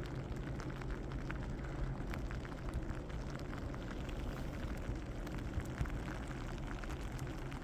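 Graupel falling, its pellets ticking irregularly on surfaces over a steady low outdoor rumble.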